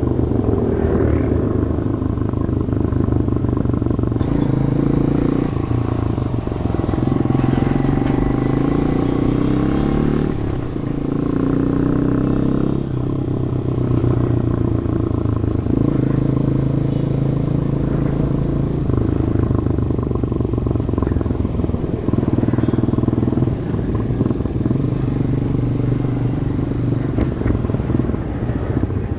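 Demak DTM 150 motorcycle engine running through its stock exhaust, heard from the rider's helmet. Its pitch rises and falls as the bike speeds up and slows, with a clear climb in revs about ten seconds in.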